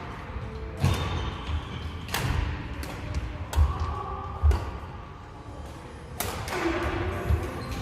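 Sharp hits and thuds about a second apart in a large indoor hall, with short shoe squeaks between them: a doubles rally in play.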